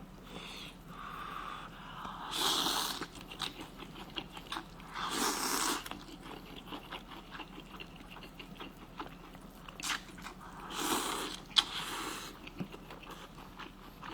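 A person chewing and biting hot-pot food at close range: a run of small crunchy, wet clicks, with three short breathy bursts spread through it.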